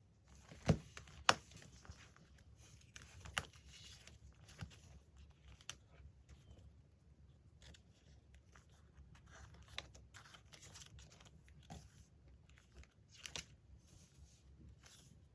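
Paper being handled for scrapbooking: soft rustling and tearing with scattered light taps and clicks, the two sharpest in the first couple of seconds.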